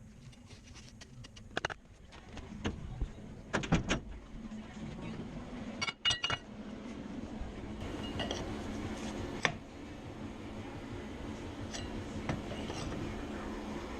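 Metal pieces clinking and knocking against each other, scattered sharp clicks, over a steady low hum that gets louder a few seconds in.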